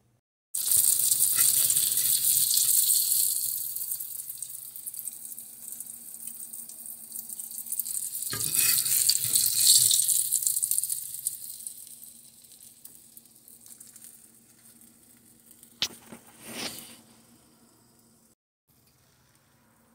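Breaded slices frying in hot oil in a cast iron skillet: a crackling sizzle that is loudest for the first few seconds, fades, swells again about halfway through and then dies away. Two short scrapes, from a spatula against the pan, come near the end.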